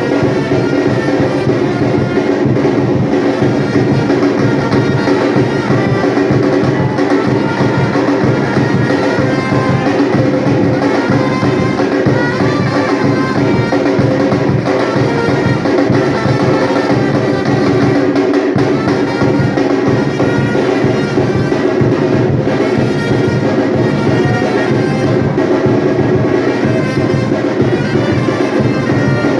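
Batucada percussion group drumming loudly and without a break, with sustained pitched music over the drums.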